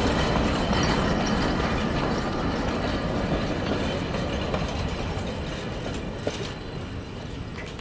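Vintage wooden passenger carriages rolling past at close range, wheels running on the rails with clicks and rattles; the sound fades steadily as the last carriage passes and the train moves away.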